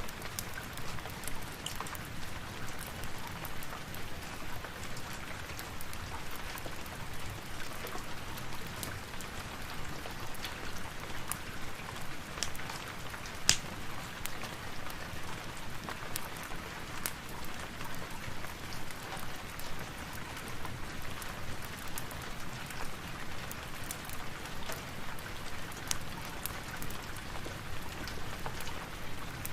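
Steady rain falling, mixed with a crackling wood fire whose sharp pops and clicks come at irregular moments, one louder pop about halfway through.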